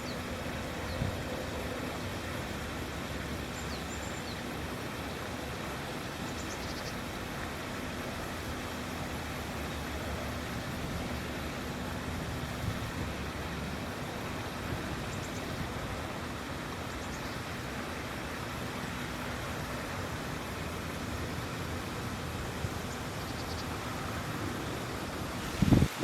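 Steady outdoor background rush with a faint low hum, and a short loud bump just before the end.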